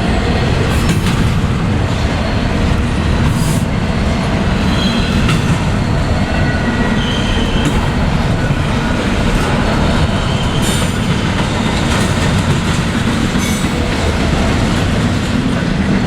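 Norfolk Southern freight train rolling past: a steady rumble of wheels on rail, with scattered clicks and brief faint wheel squeals.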